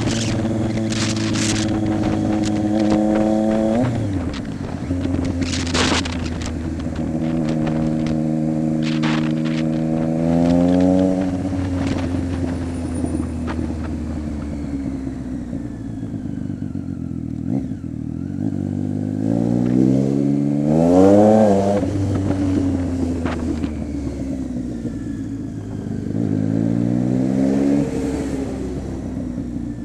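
2015 Triumph Street Triple 675's inline three-cylinder engine running through an unbaffled Coffman's exhaust. The note holds steady for a few seconds at a time, drops back, and climbs again with the throttle, with a sharp rise and fall about two-thirds of the way through and another rise near the end. Short crackling noises come now and then in the first third.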